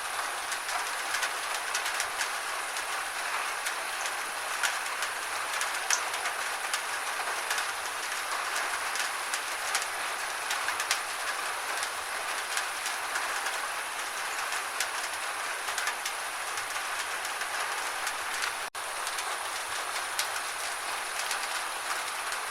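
Gentle rain falling steadily: an even hiss with many small drop ticks through it. A split-second gap in the sound comes late on.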